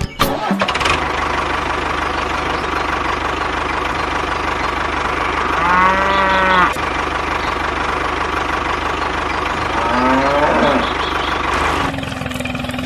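A small motor running steadily, with a cow mooing twice, once about halfway through and again a few seconds later.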